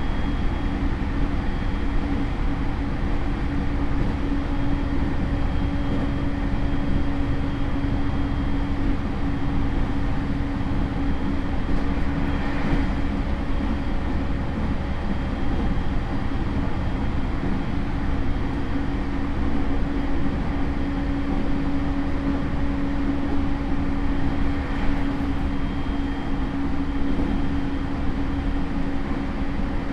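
Steady on-board running sound of a JR E231 series train motor car with Hitachi IGBT inverter drive: wheels rumbling on the rails, with a steady low hum and a faint steady high tone, the pitch not changing, as at constant speed.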